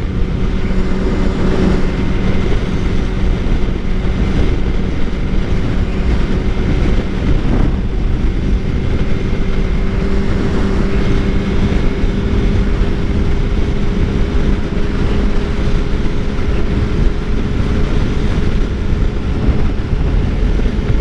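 Suzuki GSX-R 600 inline-four running steadily at highway cruising speed, its engine note creeping slightly higher over the stretch, under heavy wind rush on the microphone.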